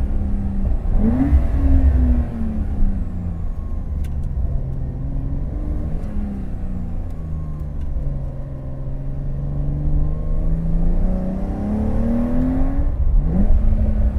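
Porsche 911 Carrera T's twin-turbo flat-six engine and exhaust under way, with a quick rise in revs about a second in, engine speed falling slowly for several seconds, then climbing steadily, and another quick rise in revs near the end.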